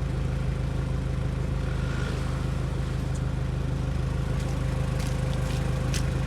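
Off-road 4x4's engine running steadily at low revs, with a few light knocks near the end.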